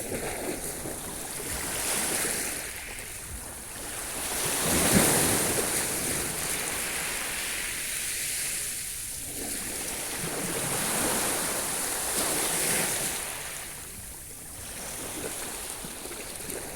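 Sea waves washing in and drawing back, the surf swelling and fading in several surges, loudest about five seconds in.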